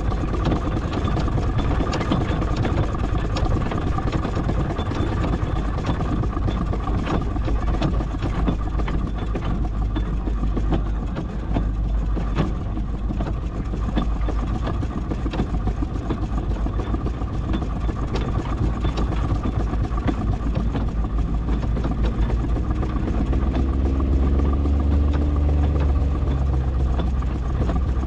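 Miniature steam traction engine running slowly in bottom gear: a steady mechanical rumble with fine ticking and a held hum. A deeper engine drone swells louder about three-quarters of the way through.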